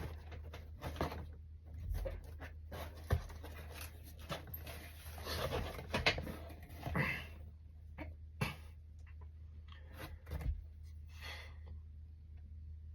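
Cardboard box and newspaper packing rustling and crinkling in uneven bursts as they are handled and pulled open to unpack it.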